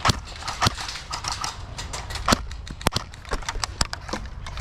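Airsoft gunfire in a skirmish: about half a dozen sharp snaps at irregular intervals, with fainter clicks and ticks between them.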